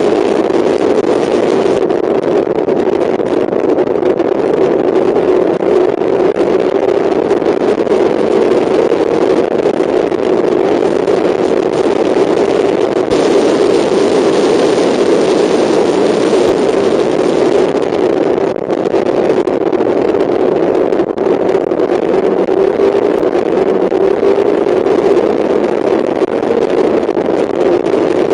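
Mazda MX-5 race car's four-cylinder engine running hard at speed, heard from a camera mounted on the car, with wind and road rush over it. The engine note holds steady, with a couple of brief dips in level in the second half.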